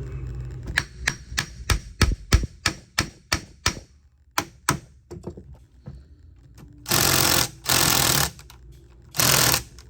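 A run of sharp clicks or taps, about three a second, then three short bursts of WD-40 aerosol spray hissing onto a seized starter bolt, each about half a second long.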